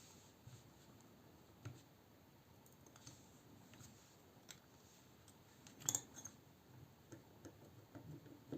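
Faint, scattered clicks and taps of small metal knife parts and tools being handled during a folding-knife disassembly, with one sharper click about six seconds in.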